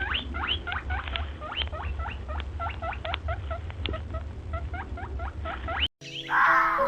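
A rapid run of short, high squeaks from a small animal, several a second, each sweeping steeply in pitch. They cut off abruptly near the end, giving way to music.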